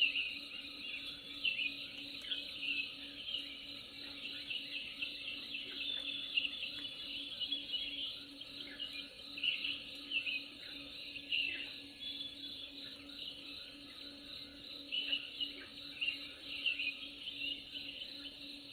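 A dense natural chorus of birds chirping rapidly and insects trilling. It runs steadily, with a faint low steady hum underneath.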